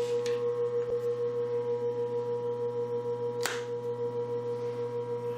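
Steady electrical hum with a strong single tone from the powered-up Brown & Sharpe #1 cylindrical grinder's motor and electrics, pulsing slightly in level. A faint click comes about a second in and a sharper click about halfway through.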